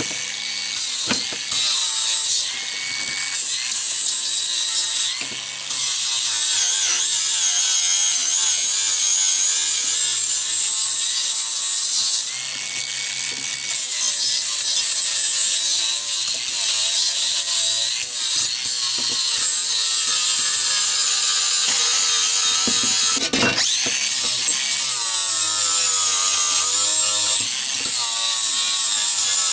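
Angle grinder grinding steel, a high whine that wavers in pitch as the disc is pressed on and eased off, with a few brief lifts; the welds on the fabricated bracket are being ground down.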